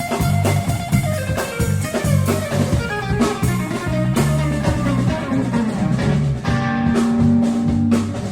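A rock band jamming: electric guitar playing over drum kit and bass, with a long held note near the end.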